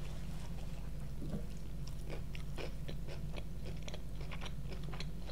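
Close-miked biting and chewing of crispy fried chicken: irregular wet mouth clicks and crunches of the breaded coating, thickening after about a second, over a steady low hum.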